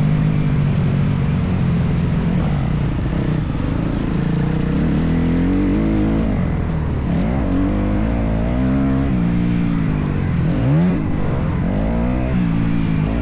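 Motocross dirt bike engine revving hard and easing off over and over, its pitch climbing and falling as the rider works the throttle and gears around the track, with a sharp rev about ten seconds in.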